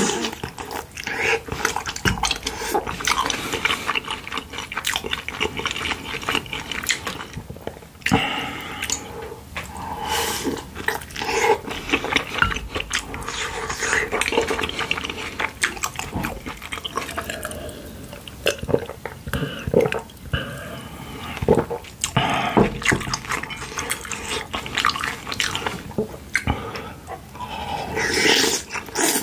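Close-miked, wet chewing of a dumpling and chewy rice cakes in soup: sticky mouth sounds with many irregular clicks. Near the end comes a sip of soup from a wooden spoon.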